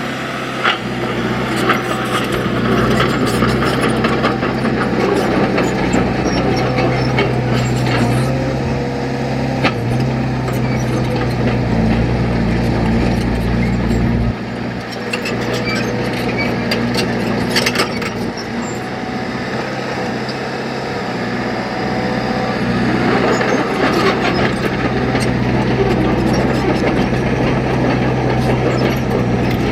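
Diesel engine of heavy earthmoving machinery running steadily, with scattered clanks and knocks. The deep part of the engine note drops off abruptly about halfway through.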